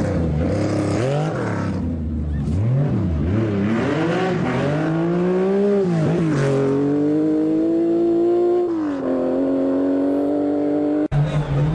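Group B rally car engine revving hard, its pitch swinging quickly up and down with throttle and gear changes, then holding a steady high note that steps down once about nine seconds in. The sound breaks off abruptly near the end.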